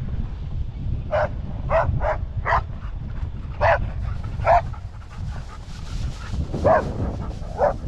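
A dog barking in short, high yips, about eight of them in irregular bunches, over a steady low rumble.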